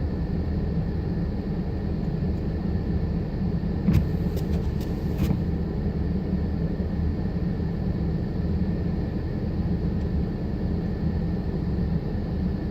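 Blizzard wind rumbling steadily over the microphone, with a few short clicks about four to five seconds in.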